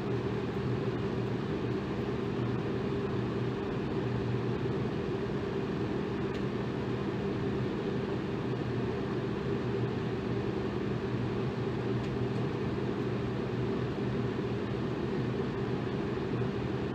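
Electric fan running steadily: an even whooshing hiss of moving air over a low motor hum.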